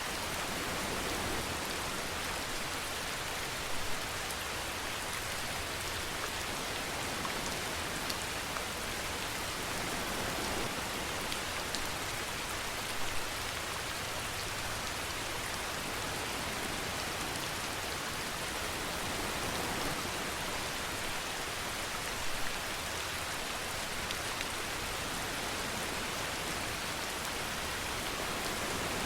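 Steady rain falling and pattering on a surface, with a few louder single drops now and then.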